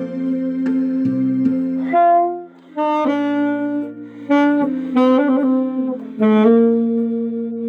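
Alto saxophone playing a slow melody of held notes over a sustained keyboard backing track. The keyboard chords sound alone at first, and the saxophone comes in about two seconds in, phrasing with short breaks between notes.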